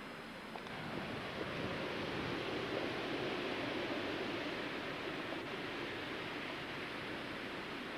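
Blizzard wind gusting: a steady rushing that swells about a second in and eases slightly near the end.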